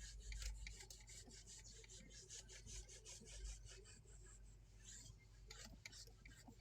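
Faint rubbing of a car surface being wiped clean, in quick, irregular scrubbing strokes that thin out after about four seconds.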